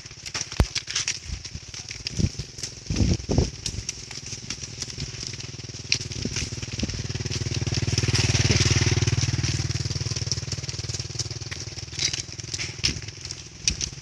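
Wind-blown bodhi tree leaves rustling, with many sharp crackling clicks. Under them a low engine hum swells to its loudest about halfway through, then fades.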